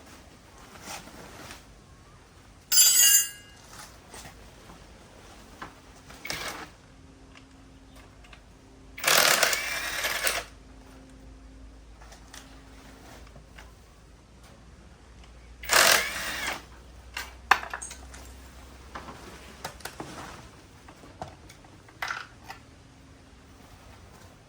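Metal tools and parts being handled during hand repair work on a diesel tiller engine: a sharp metallic clang with ringing about three seconds in, two longer scraping noises near the middle, and scattered clinks and taps.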